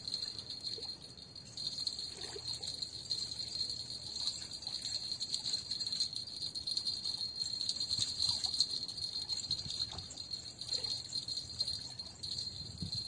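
Steady high-pitched chirring of insects in riverside grass, with faint light jingling now and then.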